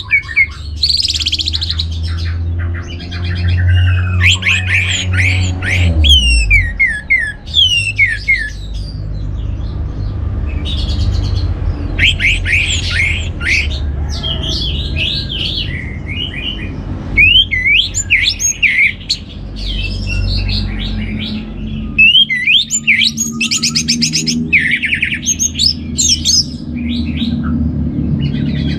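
Orange-headed thrush singing: quick phrases of rapid, sweeping, varied notes with short pauses between them, over a steady low hum.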